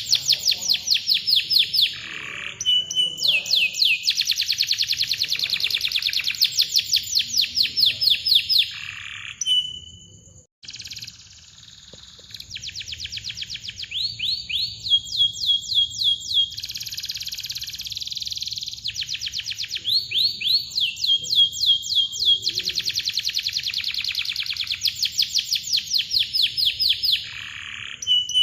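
Domestic canary singing long, tight rolls: rapid runs of quick falling chirps repeated many times a second, phrase after phrase, with a short break about ten seconds in.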